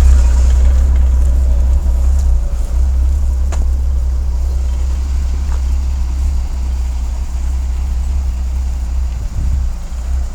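Engine of an ex-military radar truck idling steadily with a deep, even hum.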